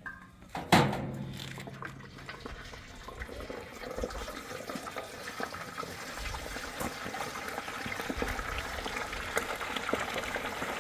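Hot cooking oil bubbling and crackling as a whole turkey goes into a deep fryer, the boil building steadily louder; a single sharp clank sounds just under a second in.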